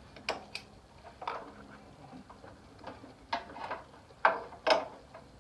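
Sharp clicks and knocks, about six spread over several seconds, from a VW Beetle distributor cap's metal spring clips being unsnapped and the cap being lifted off.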